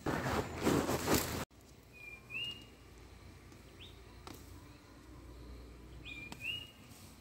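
Rubbing handling noise on the microphone for about the first second and a half, cut off sharply. Then a small bird calls twice in a quiet field, each call a short note that rises at its end.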